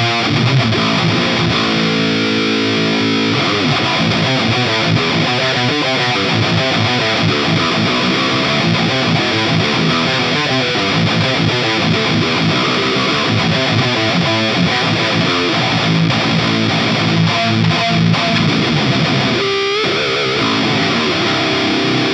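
Distorted electric guitar through a Soldano SLO-100 clone amplifier with the gain turned up high, riffing with held chords about two seconds in and again at the end. A brief break in the playing comes a little before the end.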